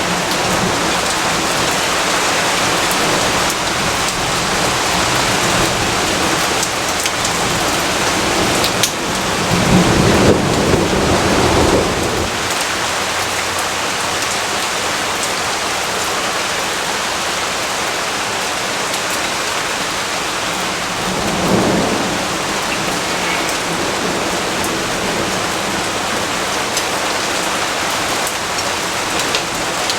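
Steady heavy rain falling, with a long low roll of thunder about nine seconds in and a shorter one a little past twenty seconds.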